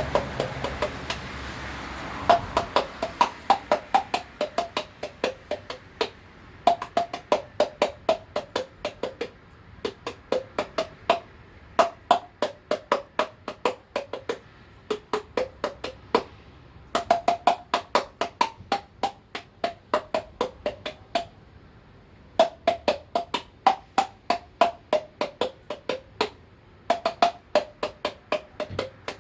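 A man playing a tune by beating on his jaw with his fingers: rapid hollow knocks, several a second, whose pitch moves up and down to carry the melody. They come in phrases of a few seconds with short breaks between them.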